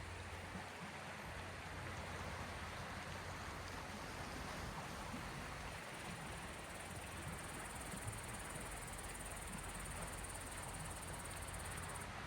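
Gulf of Finland waves washing, a steady, even noise without distinct breaks. A faint high hiss joins about halfway and stops abruptly near the end.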